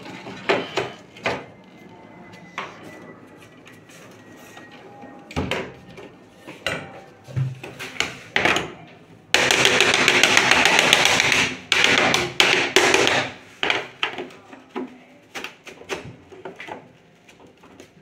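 Repeated knocks and taps of tools and panels being handled on a washing machine under repair. A loud rushing noise runs for about two seconds near the middle.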